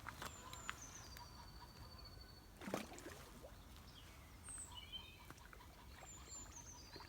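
Quiet outdoor ambience with a small bird calling twice: a high, thin note that slides down and then holds, once near the start and again near the end. A brief louder sweep comes about three seconds in.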